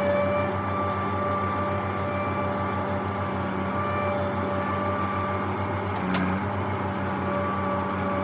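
Diesel engine running steadily at a constant speed, a low pulsing rumble with a steady hum. There is one short click about six seconds in.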